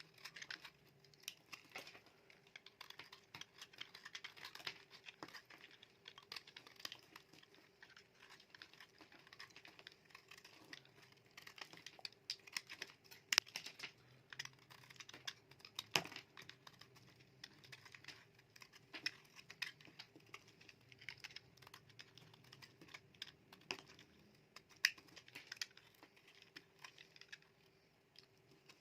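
Knife cutting through dry bar soap: a steady run of crisp, irregular crackles and clicks, with a couple of sharper snaps about halfway through.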